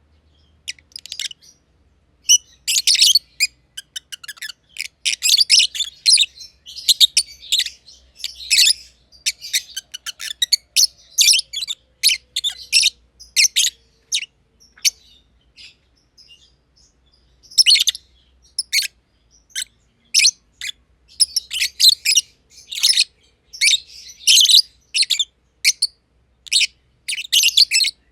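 Masked lovebirds chirping in rapid, high-pitched bursts of many short calls, with a brief lull about halfway through before the chatter resumes.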